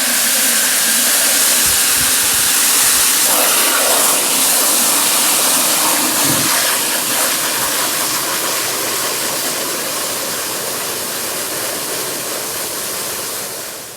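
Garden hose running water into a bucket with a little car-wash soap in it: a steady, loud rushing that cuts off at the very end.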